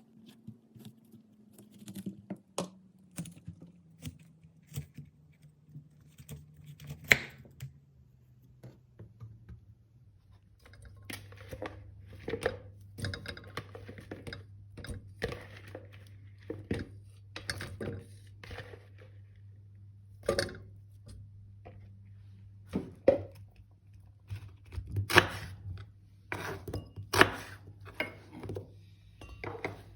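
Kitchen handling sounds: scattered knocks and clicks of utensils and dishes, denser and louder in the second half, over a low hum that slides down in pitch and then holds steady from about ten seconds in.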